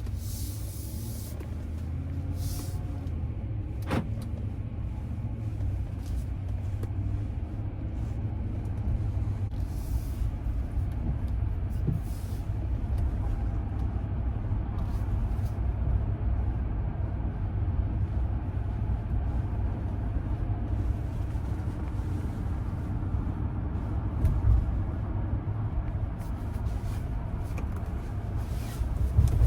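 Steady low rumble of a Ram pickup's Hemi V8 and road noise, heard from inside the cab while driving, with a single sharp click about four seconds in.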